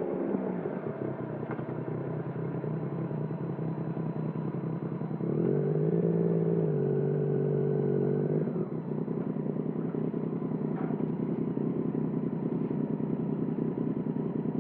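Yamaha MT-09's three-cylinder engine through a Termignoni exhaust, running at low revs with a rough, uneven note. About five seconds in it steps up to a higher, steady note for about three seconds, then drops back to low revs.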